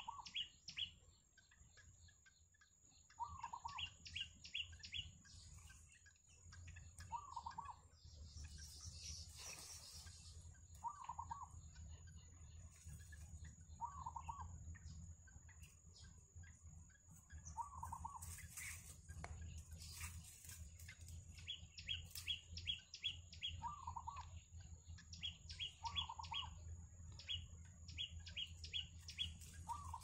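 Birds calling, faint: a short lower call repeats every three to four seconds, alternating with quick runs of six or seven high chirps. A thin steady high tone and a low rumble sit underneath.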